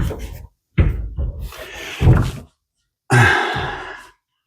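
Closet door being knocked and bumped as it is worked into its fitting: three separate knocks and clatters, the last one about three seconds in and the longest.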